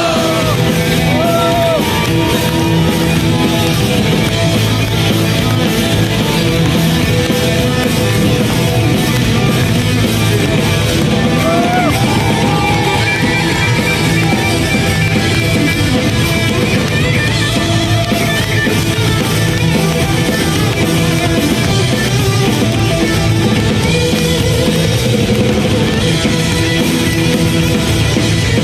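Rock band playing an instrumental passage with guitars, bass and drums, steady and loud throughout.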